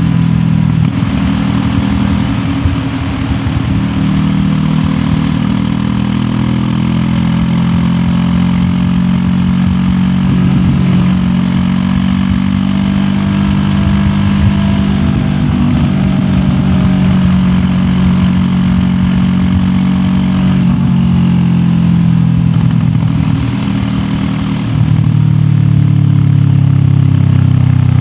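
QJ Motor SRT 700X parallel-twin engine running under way, heard from a recorder in the rider's backpack, with small rises and falls in engine speed. About 25 s in the throttle opens and the engine gets louder and stays so.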